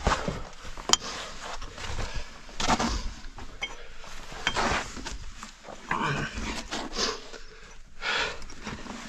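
A caver panting hard while crawling through a tight rock passage, in irregular heavy breaths. There is a sharp knock against rock about a second in.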